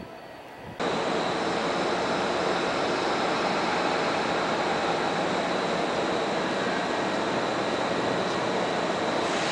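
Steady, loud rushing noise of a train running along the track, with a faint high steady whine, starting abruptly about a second in.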